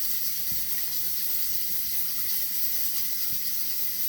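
Plantain slices frying in hot oil, a steady sizzle.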